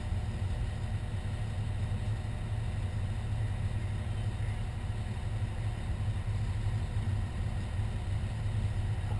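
Fire engine's engine running steadily, a low, even drone with no siren sounding.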